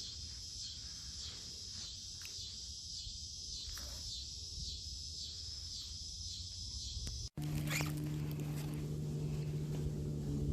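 Insects chirping in a steady high, evenly pulsing chorus. About seven seconds in it cuts off abruptly, and a louder, steady low motor hum takes over.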